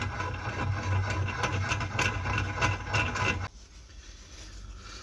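Bench drill's electric motor running with a steady hum and some scraping noise, which cuts off abruptly about three and a half seconds in.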